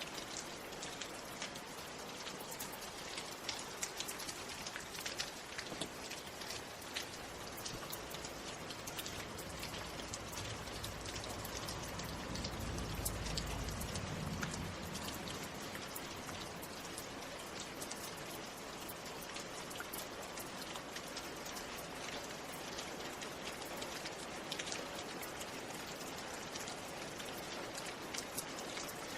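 Steady rain, with many separate drops heard as small clicks. A low rumble swells briefly near the middle.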